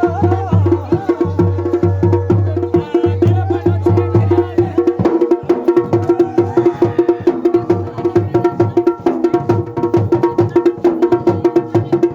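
Garhwali dhol and damau drums playing a fast, dense rhythm over a steady held tone; the low drum pattern changes about five seconds in.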